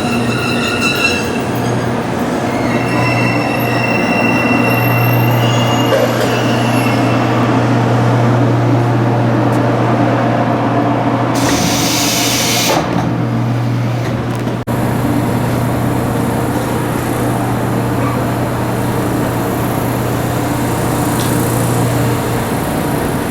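Train running on rails with a steady low hum, with high wheel squeal in the first several seconds. A short hiss comes about halfway through, and the hum stops near the end.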